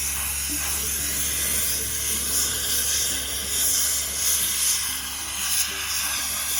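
Steady, loud hiss of an abrasive sandblaster working, over background music with held notes.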